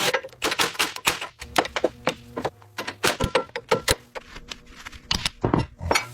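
Quick irregular clicks, taps and knocks of hand tools and metal parts being handled during restoration work on an old truck.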